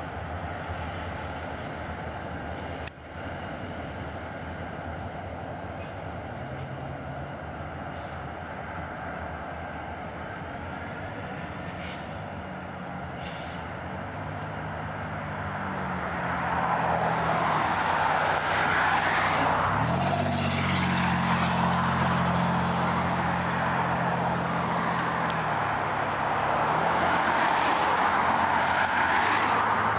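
Diesel locomotive working in a rail yard: its engine drones low and its pitch steps up about two-thirds of the way through as it is throttled up, with the noise of the moving train growing louder from about halfway. A faint steady high whine is heard through the first half.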